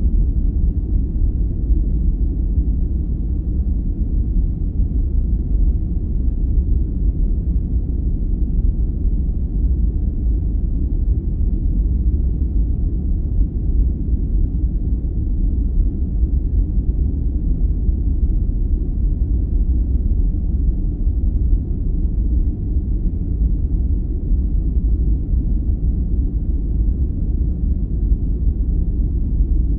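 Steady sleep noise of the low, brown-noise kind: a deep, muffled, even rumble with no high hiss and no change throughout.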